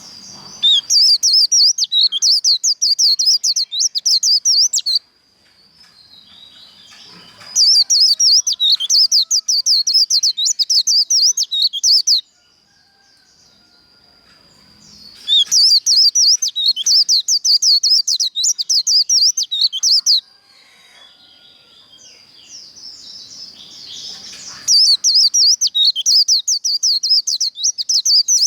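White-eye (vành khuyên) singing its fast twittering 'líu' song in four bouts of about four to five seconds each, with short pauses between them: the competitive 'líu đấu' singing that keepers use to fire up captive white-eyes.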